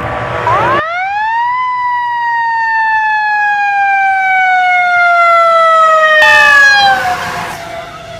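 A fire truck's mechanical siren winds up quickly in pitch, then coasts slowly down in one long falling tone. A loud rush of vehicle noise comes about six seconds in.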